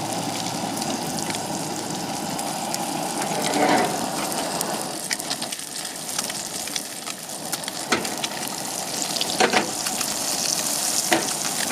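Salmon fillet frying skin side down in a hot cast iron skillet: a steady sizzle with a few sharp pops and crackles in the second half. The pan is running a little hot.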